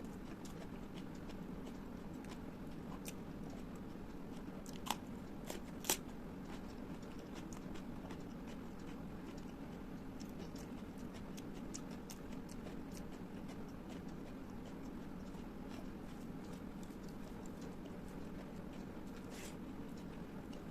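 Close-miked eating sounds: chewing with scattered small wet clicks, and two sharper clicks about five and six seconds in, over a steady low background hum.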